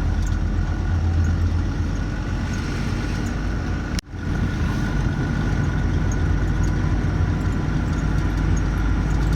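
Truck engine and road noise heard from inside the cab while driving, a steady low drone with a faint steady whine above it. The sound cuts out for an instant about four seconds in.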